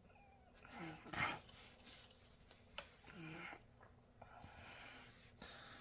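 Faint rubbing and handling noises, a few soft scrapes and swishes, with two short faint pitched sounds about a second in and past the three-second mark.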